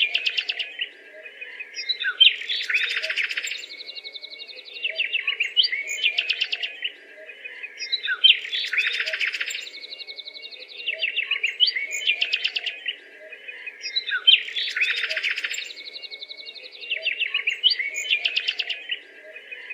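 Songbird singing: rapid chirps and buzzy trills, with the same song phrase returning about every six seconds.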